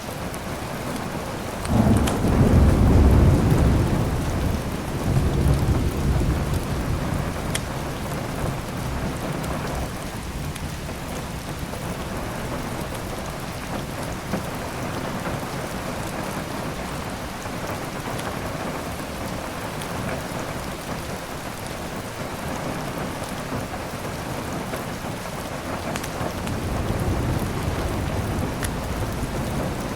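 Steady heavy rain with thunder: a loud rolling rumble about two seconds in, a second swell around five seconds, and a softer rumble near the end.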